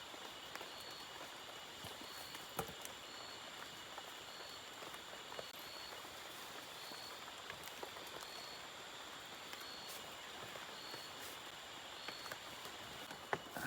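Faint drizzle with scattered drops ticking. Under it runs a steady high drone from forest creatures, and a short high chirp repeats about every second and a half.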